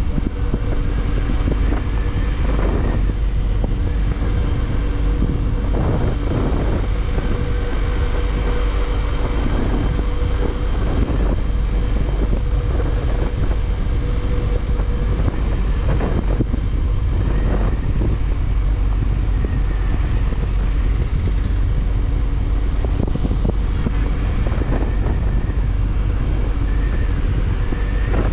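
Single-cylinder Bajaj Pulsar motorcycle engine running at a steady cruising speed on the road, under a heavy, constant wind rumble on the microphone, with a few brief swells, as of passing traffic.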